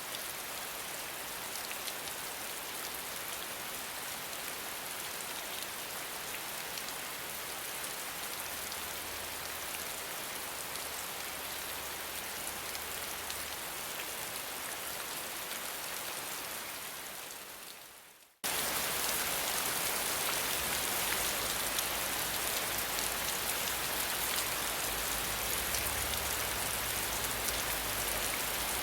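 Steady rain falling. About two-thirds of the way through it fades out and cuts straight into a louder, brighter rain recording.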